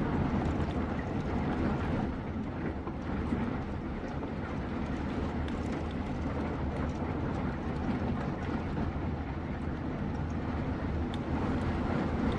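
Heavy thunderstorm rain pouring steadily, a constant hiss with faint scattered drop ticks.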